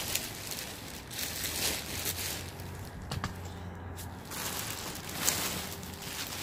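Rustling and crinkling as items are handled and rummaged through. It comes in two swells a second or so long, with a short click about halfway.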